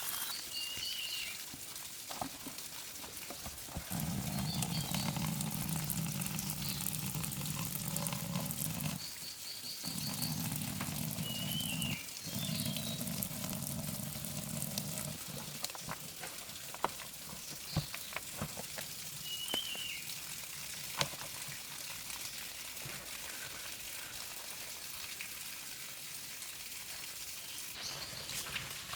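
A bird chirps briefly every few seconds over a steady hiss. A low rushing sound runs from about four seconds in to about fifteen, and a few sharp clicks and knocks are scattered through.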